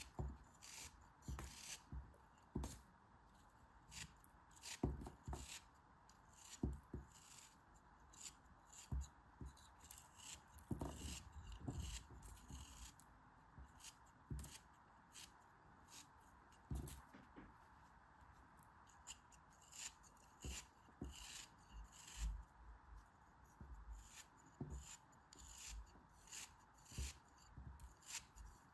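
Close-up handling sounds of unpacking: irregular crisp clicks, snips and crunches, sometimes several a second, over a faint steady hiss.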